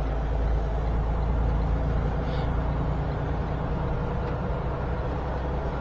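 Steady low rumble of a semi-truck's engine and road noise, heard from inside the cab while driving at speed.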